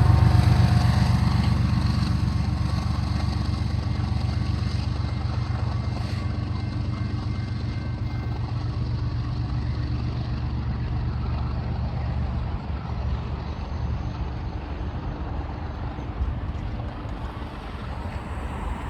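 Intermodal freight train rolling past, a steady low rumble of cars on the rails that slowly fades as the train moves away.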